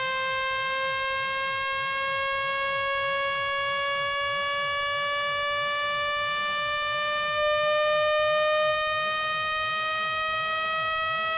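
Synthesized speaker-cleaning tone: a steady, buzzy electronic tone with many overtones, slowly rising in pitch, played to vibrate water and dust out of a phone speaker grille.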